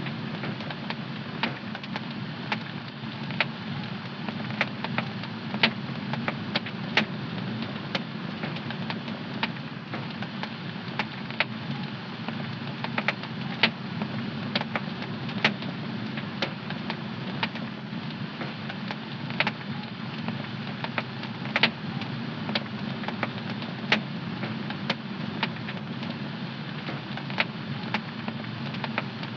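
Fire in a home fireplace crackling: irregular sharp pops and snaps, a few a second, over a steady low rush of the burning flames.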